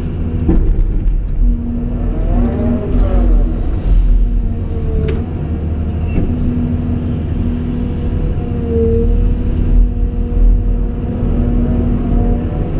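Caterpillar 349E excavator running: a low diesel rumble with a steady hydraulic whine that cuts out and returns, rising and falling in pitch a couple of seconds in, with a few sharp clicks.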